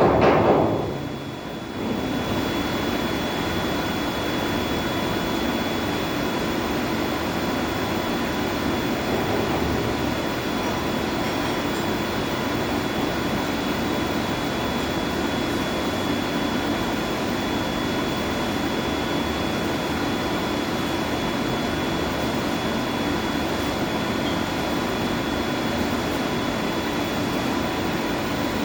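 Steady machinery noise of a boiler room, pumps and fans running, with a faint constant high whine over it. A louder sound dies away in the first second or so.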